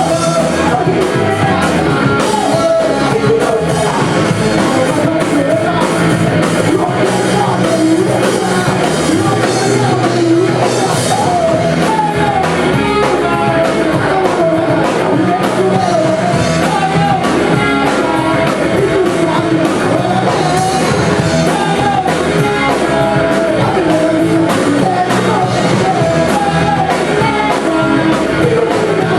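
A rock band playing a song live, with a singer's voice over the band; loud and continuous throughout.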